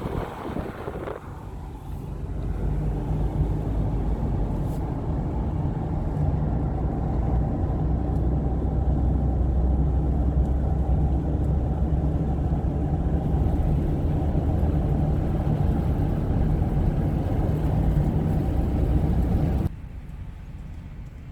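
A motor vehicle running steadily with a low hum. It builds over the first couple of seconds and cuts off abruptly near the end.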